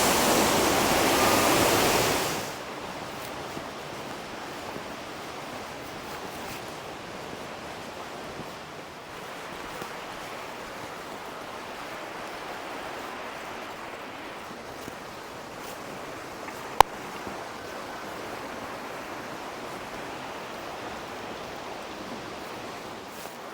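Waterfall rushing loudly, dropping after about two seconds to a quieter, steady rush of falling water. A single sharp click about two-thirds of the way through.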